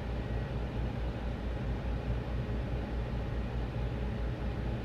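A 2004 Lincoln Aviator's 4.6-litre V8 running at a steady raised idle of about 2,000 RPM, with a low even rumble. The engine is being warmed up to burp trapped air out of its cooling system after a radiator replacement.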